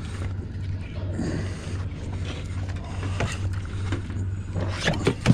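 Boat engine idling with a steady low hum, under scattered knocks and scrapes on the hull. Near the end come louder knocks and a thump as the gaffed shark is hauled aboard.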